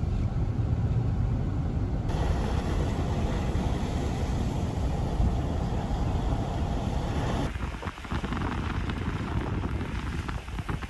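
A car driving through a snowstorm: steady road and engine rumble. The sound shifts abruptly twice, about two seconds in and again past the middle.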